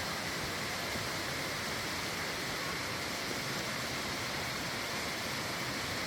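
Aber Falls waterfall: a steady, unbroken rush of falling water.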